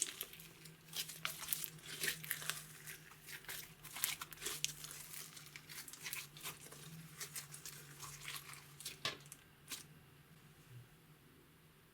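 Slime mixed with makeup and glitter being worked by hand, giving a sticky crackling: a quick stream of small pops and clicks that thins out and stops about ten seconds in. A faint steady hum runs underneath.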